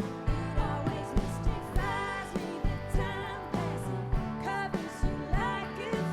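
Live band playing a song through a concert PA, with drums keeping a steady beat under sustained guitar chords and a wavering melody line.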